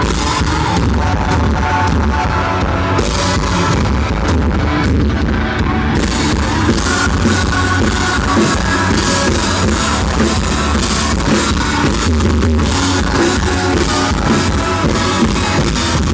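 A country rock band playing live, drums, bass and guitar, recorded loud and distorted. Cymbal crashes come in about six seconds in.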